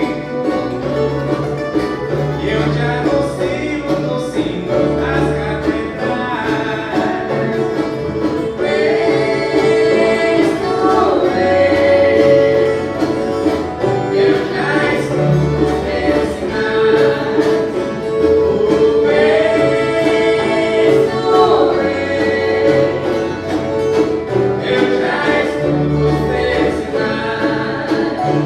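Viola caipira orchestra playing a song: many plucked ten-string violas caipiras strumming and picking together, with voices singing over them.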